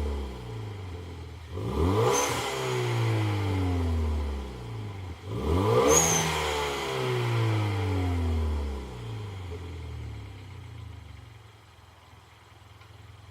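Hyundai Veloster Turbo engine with an aftermarket WABBP end muffler, free-revved twice while parked: two quick blips, about 2 s and 6 s in, each followed by the revs falling away slowly. It settles to a quieter idle near the end.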